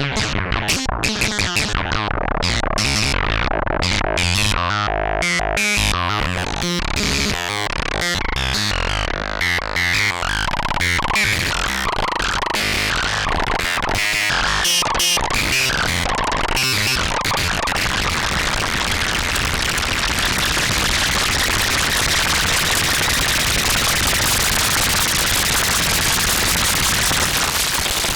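K-ACCUMULATOR synthesizer module playing raw and harsh as it transitions into its XPM (cross phase modulation) mode. For the first half or so it is a choppy, rapidly stuttering cacophony. About two-thirds of the way through it settles into a dense, steady noisy wash.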